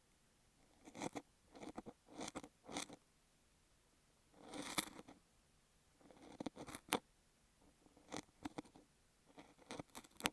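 Ear pick working kinetic sand against a beeswax sheet on an earphone microphone: short crunchy scraping strokes in about seven separate bursts with pauses between, one longer, fuller stroke near the middle.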